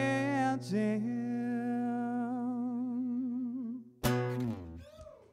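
Male singer holding the final sung word of the song with vibrato over a sustained guitar chord, then a last strummed guitar chord about four seconds in that rings out and fades away.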